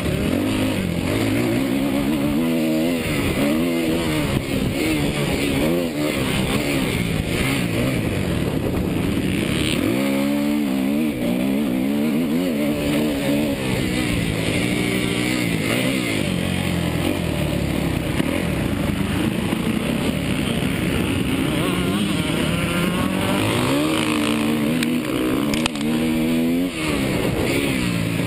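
Suzuki motocross dirt bike engine being ridden hard, its pitch rising and falling again and again as the throttle is opened and shut. A steady rush of noise, like wind on the microphone, runs under it.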